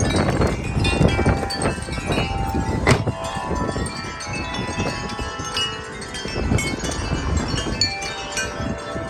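Several wind chimes ringing and clanging in strong gusty wind, with wind buffeting the microphone in a low rumble. One sharp knock about three seconds in.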